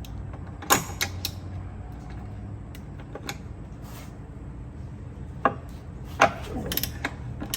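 Scattered sharp metal clicks and knocks of a trim seal removal spanner tool being fitted and worked on the ram of a Yamaha power trim unit, over a low steady hum. The loudest knocks come about a second in and again near the end.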